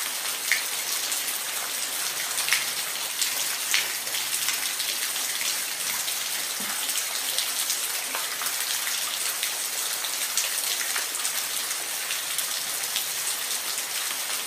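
Steady rain falling, a continuous hiss with individual drops ticking sharply here and there, a few louder ones in the first few seconds.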